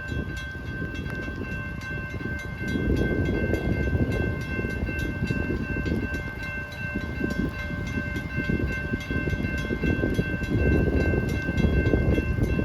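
Amtrak passenger train led by a P42 diesel locomotive pulling into a station: an uneven low rumble with a few steady high tones held over it, in rain and high wind.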